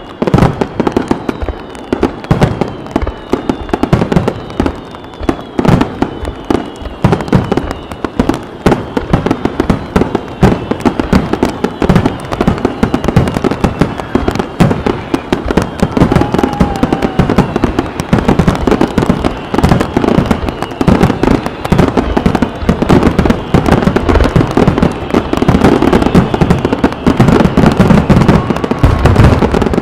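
Aerial fireworks barrage: a dense, rapid-fire stream of shell launches and bursts with hardly a gap, growing louder and denser over the last several seconds.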